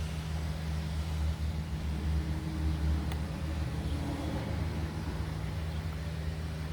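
Steady low mechanical hum, like a motor or engine running in the background, with faint handling noises partway through.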